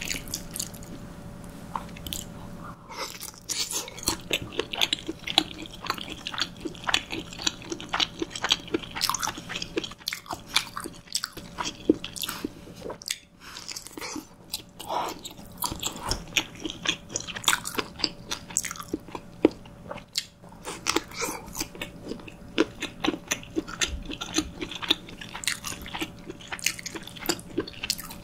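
Close-miked chewing of soft cream pasta, a continuous run of wet mouth clicks and smacks, with a faint steady hum underneath.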